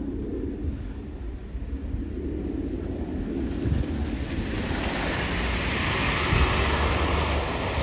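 Wind in a snowstorm, buffeting the microphone with a low rumble; a gust builds into a rising hiss from about halfway through.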